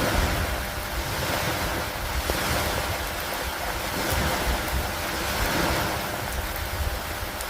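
Steady rain with wind, rising and falling in slow swells every couple of seconds, over a low rumble.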